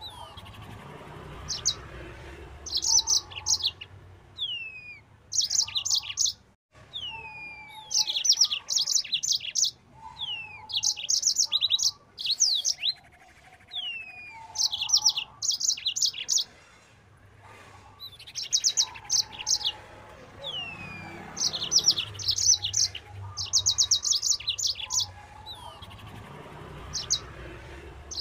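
Yellow-fronted canary (Mozambique canary) singing: bursts of rapid, high, chattering trills every couple of seconds, broken by short falling whistles and softer lower notes.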